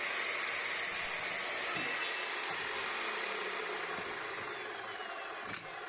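Electric drill running while boring through steel, a steady whir whose whine slowly sinks in pitch, with a couple of clicks near the end.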